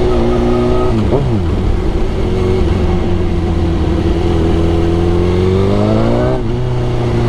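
Suzuki GSX-R1000 inline-four motorcycle engine under way: the revs drop about a second in, hold steady, then climb for a couple of seconds before dropping again at a gear change near the end.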